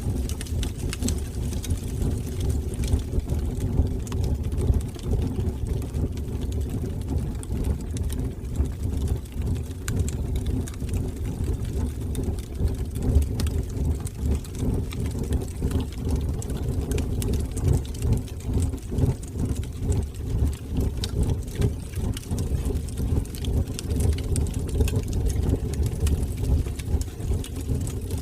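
Fire burning in a fireplace: a steady low rumble with many small crackles and pops scattered throughout.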